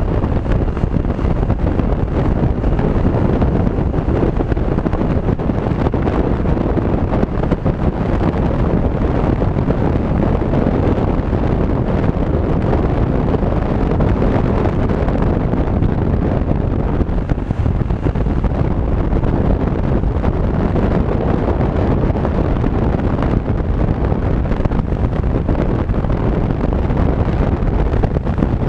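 Steady wind rush on the microphone with the running noise of a Honda PCX 125 scooter moving along the road.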